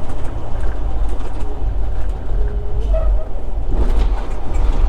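Semi-truck cab interior while driving: a steady low drone of the engine and road noise, with a few short faint tones and a brief swell of noise about four seconds in.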